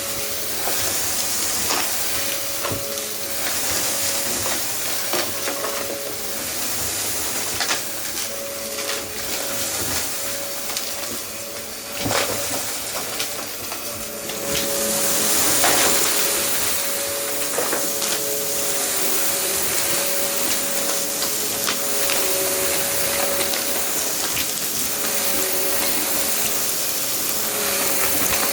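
Vacuum cleaner running with a steady motor whine and airy hiss, with scattered clicks and rattles of debris being sucked up.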